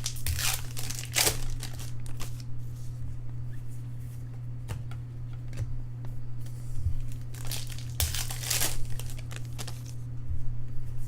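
Foil trading-card pack wrappers crinkling and tearing as packs are handled and opened, in two main bursts near the start and about two-thirds of the way in, over a steady low hum.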